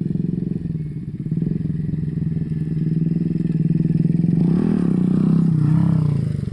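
Bajaj Pulsar NS200's single-cylinder engine idling through an aftermarket SC Project-style slip-on exhaust, then blipped twice a little after the middle, the pitch rising and falling each time.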